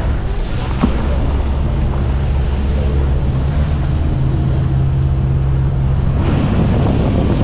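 A vehicle engine running steadily on the move, a low hum. Rushing road and wind noise swells about six seconds in.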